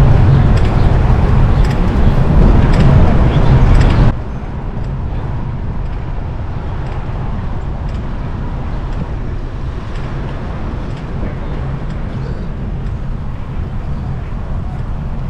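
Street traffic and wind noise on the microphone of a moving bicycle: a loud rumble for about four seconds, then a sudden drop to a quieter, steady city-street background.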